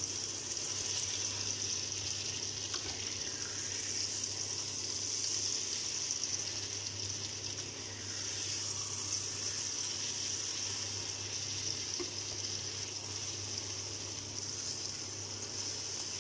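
Eggplant, sardine and egg mixture sizzling steadily as it fries in oil in a nonstick pan, with a low steady hum underneath and a couple of faint spatula ticks.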